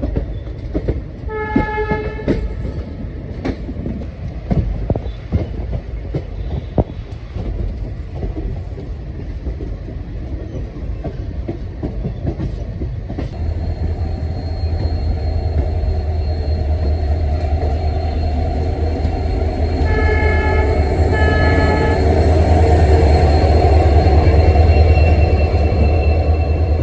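ALCO WDP3A diesel locomotive: a short horn blast near the start over clanking and clicking from the train. From about halfway through, the engine's deep rumble builds and grows louder, with two short horn blasts about 20 seconds in.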